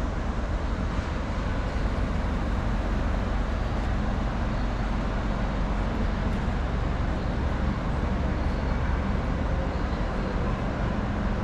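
Steady rumble of road traffic, even and continuous, with most of its weight in the low range.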